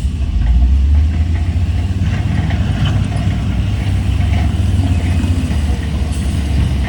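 Heavy diesel engine running steadily, its sound sitting mostly low.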